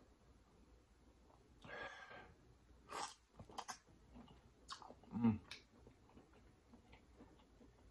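A person quietly chewing a butter-sauced tiger prawn, with a soft breath about two seconds in and a few wet mouth clicks and smacks, the loudest about five seconds in.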